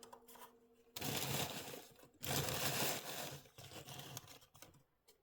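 Crumpling and rustling, in two stretches of about a second each, followed by a few faint clicks near the end.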